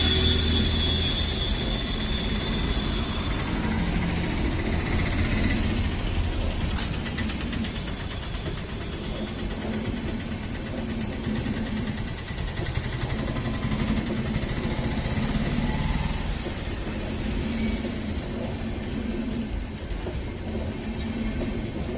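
Coaches of an Indian Railways express train rolling past close by: a steady rumble of wheels on the rails that runs on unbroken. A road vehicle's engine runs underneath, and a high steady tone sounds for the first few seconds.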